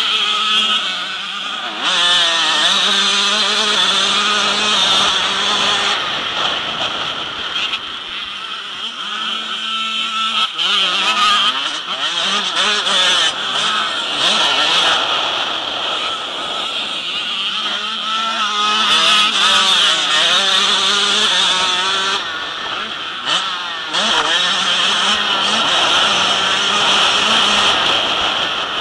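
Motocross motorcycle engines revving up and down as the bikes race, several at once, their pitches rising and falling over one another.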